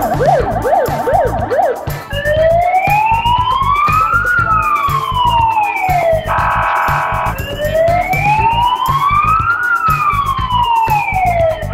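Police siren: a fast yelp, about three sweeps a second, switching about two seconds in to a slow wail that rises and falls twice. Between the two wails comes a short steady blare. A steady low beat runs underneath.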